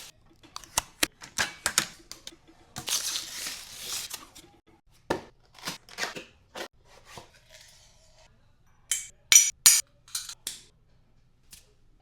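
Unboxing handling sounds: a string of clicks and knocks, about a second of rustling packaging, and a few sharp, ringing clinks of hard parts about nine seconds in.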